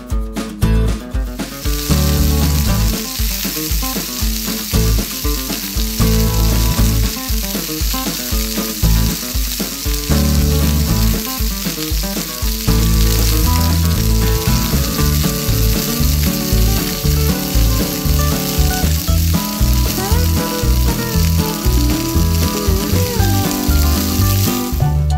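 Hot oil sizzling steadily as batter-and-noodle-coated skewers deep-fry in a miniature frying pan. The sizzle starts about a second and a half in. Background music with a steady beat plays underneath.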